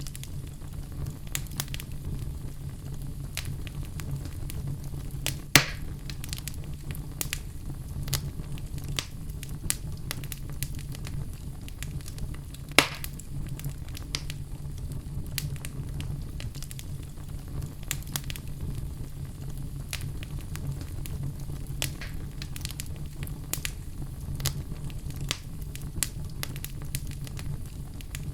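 Fire crackling: a steady low rumble of flames with frequent small pops and snaps, and two louder pops about five and a half and thirteen seconds in.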